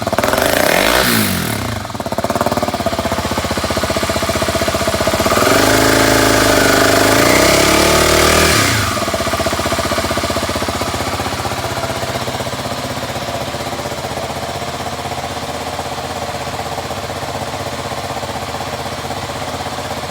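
Kawasaki D-Tracker 250's single-cylinder four-stroke engine revved with quick throttle blips, then held at higher revs for about three seconds, then dropping back to a steady idle.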